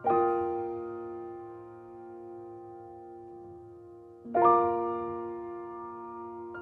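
Slow, soft piano music: a sustained chord struck at the start and another about four seconds in, each left ringing as it fades.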